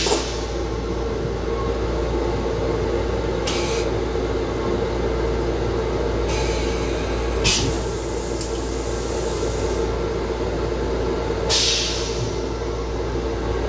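Steady low rumble and hum of a Metro-North M7 electric railcar heard from inside its small restroom, with three short hisses.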